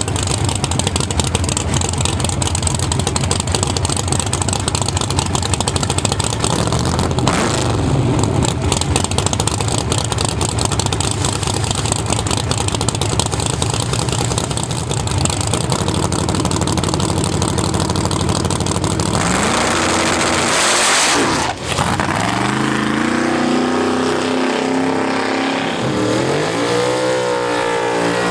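Loud drag-racing engine running roughly. About two-thirds of the way through it launches, and its pitch climbs, drops back and climbs again several times as it revs up through the gears.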